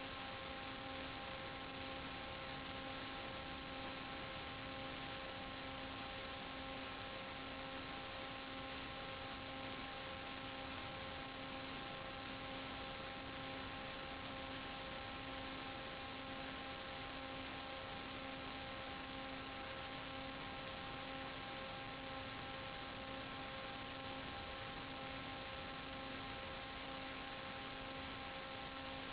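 Steady electrical hum, a fixed pitch with several overtones, over an even hiss. It does not change.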